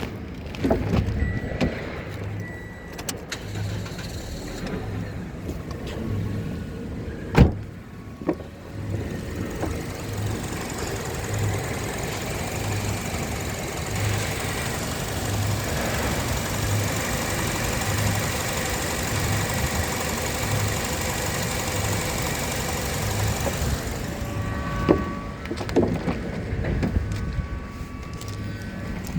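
Toyota 1NZ four-cylinder petrol engine running in the car, at idle and then held at higher revs from about ten seconds in, dropping back near the end. A single sharp knock about seven seconds in.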